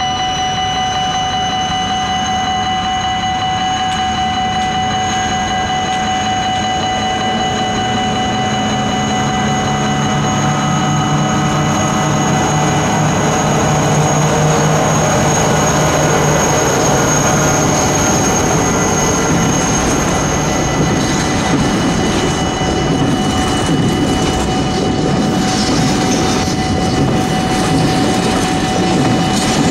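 Level-crossing warning bell ringing steadily while a diesel locomotive passes hauling a container train. The locomotive's engine grows louder through the middle, and from about two-thirds of the way in the container wagons rumble and clatter over the crossing.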